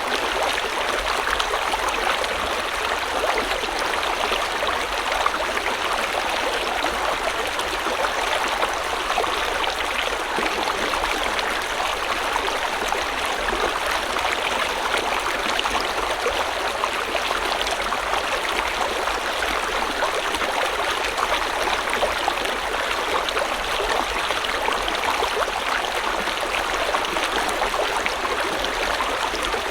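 Small river or stream flowing steadily over rocks, a continuous bubbling rush of water.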